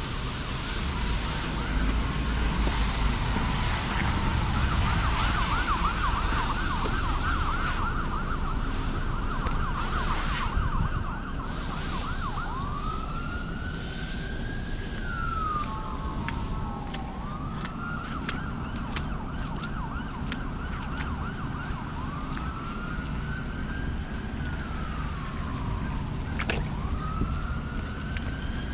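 Emergency vehicle siren: a fast yelp for about the first ten seconds, then switching to a slow wail that rises and falls every few seconds, over a steady low rumble.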